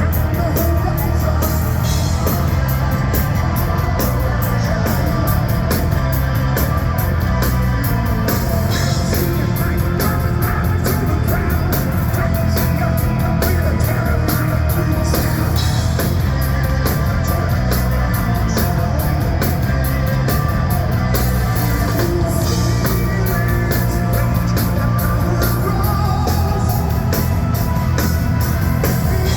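Hard rock band playing live at full volume: drums with steadily struck cymbals, electric guitar and bass in a dense, unbroken wall of sound.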